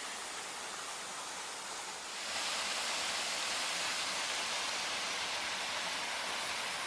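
Waterfall on a creek rushing steadily, growing louder about two seconds in.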